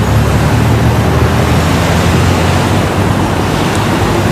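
Loud, steady road traffic noise with a deep engine rumble, as of heavy vehicles such as buses and trucks going by.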